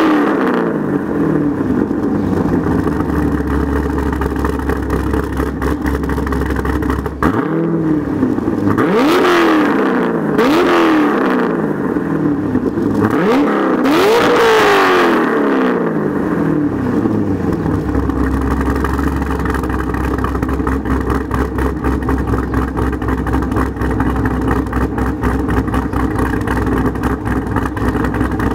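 2011 Corvette Z06's 7.0-litre LS7 V8, with aftermarket heads, cam and intake, through a Billy Boat Bullet exhaust: idling, with a rev dropping away at the start and a run of several quick throttle blips about seven to sixteen seconds in before it settles back to idle.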